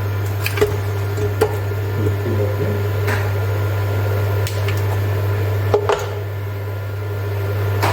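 A steady low appliance hum with a few sharp knocks and clinks, as frozen homemade chicken stock is tipped and knocked into a pan.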